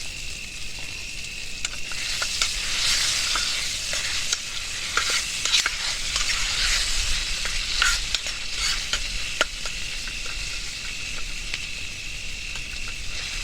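Vegetable curry sizzling as it fries in a pan, with a spoon stirring and scraping against the pan in irregular clicks. The sizzle swells about two seconds in and eases off near the end.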